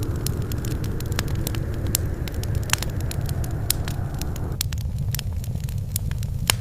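Wood fire in a fireplace crackling, with frequent sharp pops and snaps over a steady low rumble. About four and a half seconds in, a steady hiss drops away suddenly, leaving the rumble and the pops.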